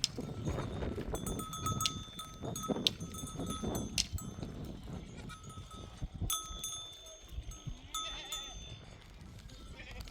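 Livestock bells clinking irregularly as the herd moves, each strike ringing briefly at the same few pitches, over low rustling and shuffling.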